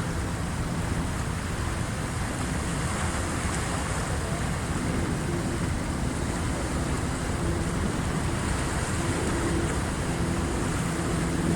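Waves of the incoming high tide washing in a steady rush. A faint low hum comes and goes in the second half.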